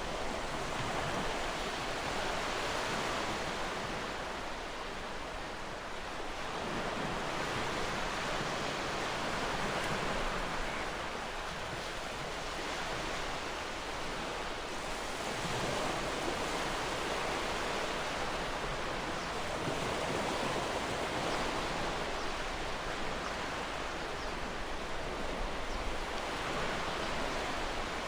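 Gentle ocean waves washing ashore: a steady rush of surf that swells and eases every few seconds.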